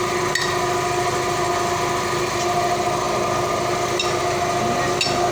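A small motor running steadily with a constant hum, with a few faint light clicks of metal tools.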